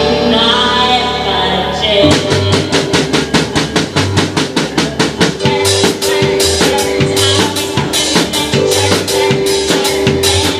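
A band playing music. A held chord rings, then a fast, even drum-kit beat comes in about two seconds in and keeps going under a sustained note.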